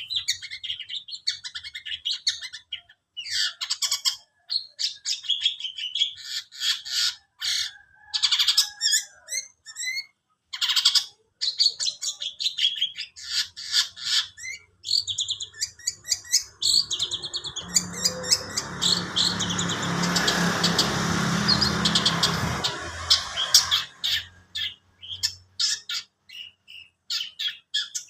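A songbird singing a long, fast, varied song of rapid chirps, trills and quick pitch glides, strung together from learned phrases ('isian'). Around the middle a broad rushing noise with a low hum swells and fades under the song.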